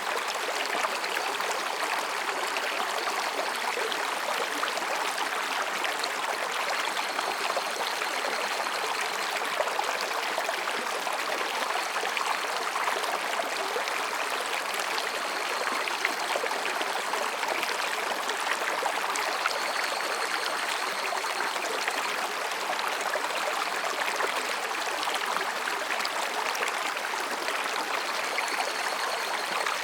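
Mountain stream babbling and rushing between rocks, a steady even sound of flowing water. Faint higurashi cicada calls rise and fade several times behind it.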